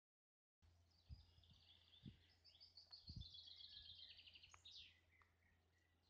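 A bird singing faintly, a quick run of repeated high chirping notes lasting about four seconds, with a few low thumps underneath.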